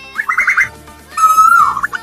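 Asian koel calls over background music with steady sustained low notes. A quick run of short notes comes about a quarter second in, then a long held note that falls away near the end, running into another quick run of notes.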